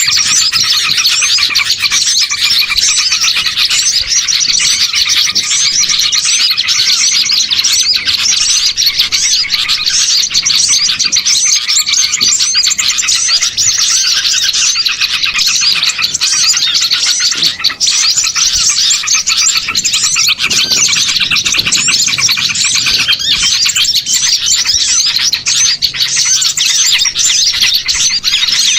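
Dense chorus of many small songbirds chirping and twittering at once, a continuous loud mass of high calls: a mixed small-bird lure recording for drawing wild birds in.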